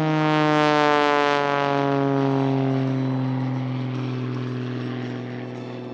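Propeller airplane flying past, its engine and propeller tone loudest about a second in, then dropping in pitch and fading as it goes away.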